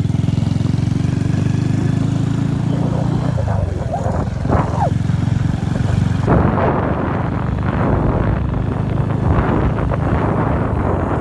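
Motorcycle engine running with a steady, even note, which breaks off about three and a half seconds in. From about six seconds the sound turns to a rough, noisy rush with wind buffeting the microphone.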